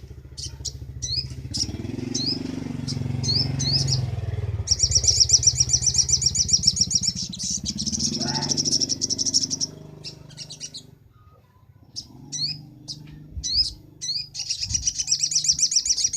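Little spiderhunter (sogok ontong) singing: a string of short, sharp rising chirps, then a fast, high trill lasting about five seconds. The chirps return, and a second trill begins near the end. A low steady hum runs underneath.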